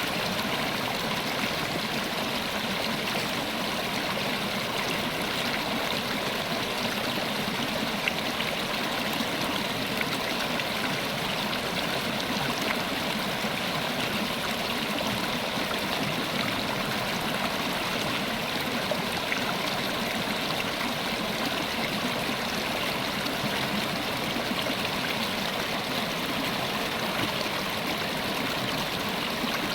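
River water flowing steadily over rocks, a continuous rushing babble with small splashes and gurgles.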